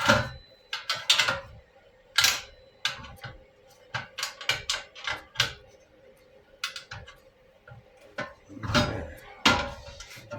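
Metal hand tools and parts clinking and clattering by hand, in quick irregular knocks with short pauses between, as they are rummaged through.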